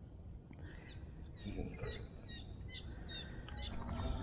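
Small birds chirping faintly: a series of short, high chirps.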